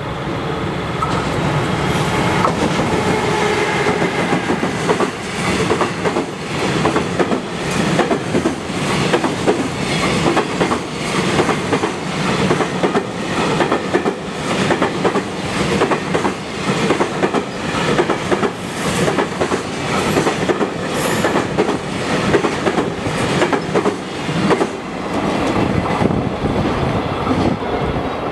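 Container freight train hauled by an electric locomotive rolling past at speed, its wagon wheels clattering in a regular rhythm over the rail joints.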